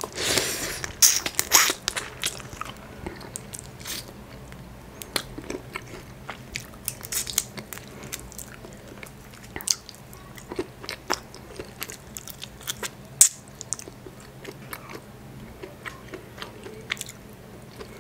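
A person chewing and biting boiled crab and shrimp, with wet mouth sounds: a close run of crunchy, clicky bites in the first couple of seconds, then scattered smacks and clicks.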